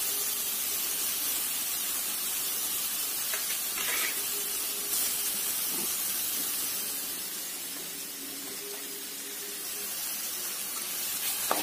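Grated carrot and onions sizzling in a hot steel pan with a steady hiss, stirred by a steel spoon with an occasional light scrape; the hiss eases a little late on.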